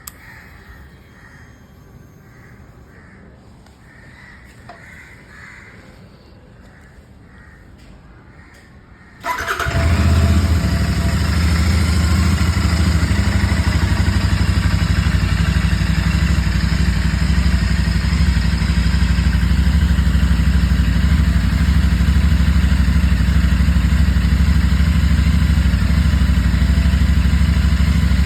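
Crows cawing repeatedly. About nine seconds in, a 2023 Royal Enfield Interceptor 650's parallel-twin engine starts from cold, catching at once and settling into a steady idle.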